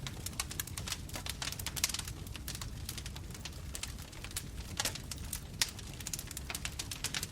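Bonfire crackling: dense, irregular pops and snaps of burning wood over a steady low rumble of the flames.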